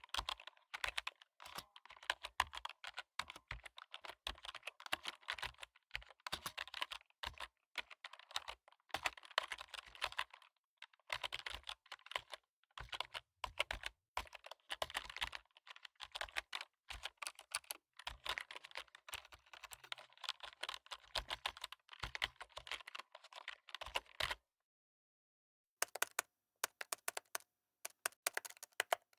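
Fast typing on a computer keyboard: dense, irregular key clicks that stop for about a second and a half near the end, then start again.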